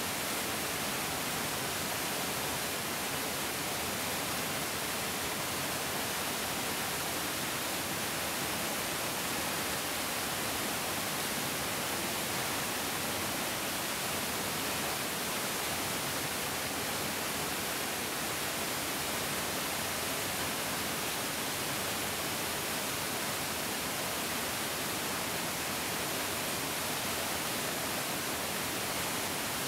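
Mountain stream flowing over rocks: a steady, even rush of water with no change throughout.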